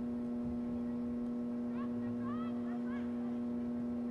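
A steady, unchanging electrical hum with a few overtones, with faint distant voices calling out a couple of times about two to three seconds in.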